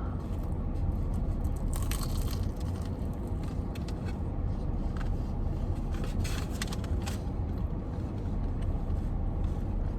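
Steady low rumble of a car heard from inside the cabin, with a few brief crackling rustles about two seconds in and again around six to seven seconds.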